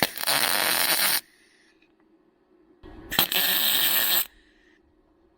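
Electric welder laying two short bursts of weld on thin car-body sheet metal, each a crackling hiss of about a second, with a pause of about two seconds between them.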